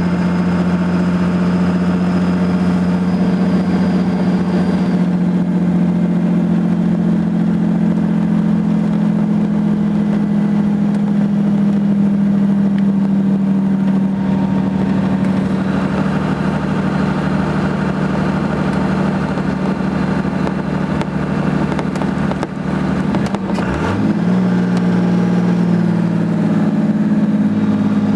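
The Cummins turbo-diesel of a Dodge Ram 2500 drones steadily under an exhaust brake while descending a steep grade. About 23 seconds in, the engine pitch drops briefly, then settles back to a steady drone.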